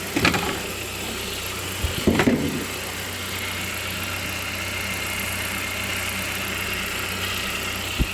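Saab 9-5's 2.0-litre turbocharged four-cylinder engine idling steadily and smoothly, a nice running engine. A few short knocks and bumps sound near the start, around two seconds in and just before the end.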